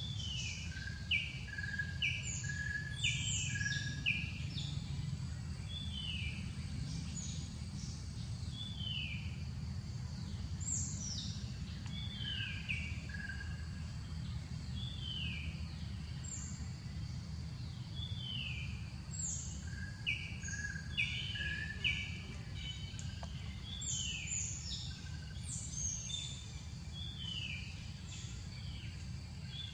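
Birds calling in forest: many short, high chirps, each sliding downward, scattered throughout over a steady low rumble.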